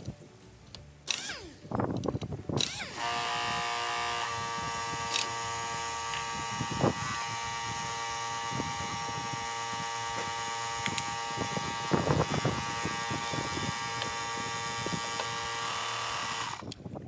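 A power-tool motor hums steadily with several fixed tones from about three seconds in until just before the end, with a few sharp knocks along the way.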